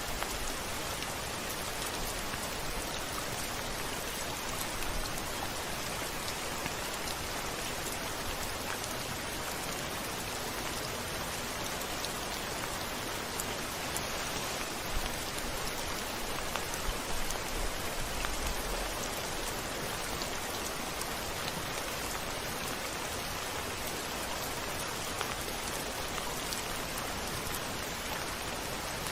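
Steady rain falling, with individual drops ticking close by. A short low rumble rises a little past the middle.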